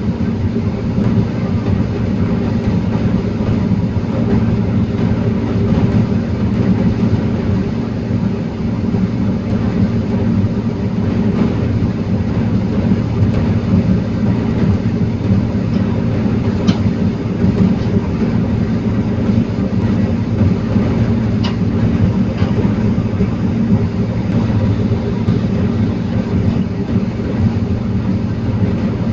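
Diesel engine of a forestry loading machine running steadily, with two brief sharp clicks partway through.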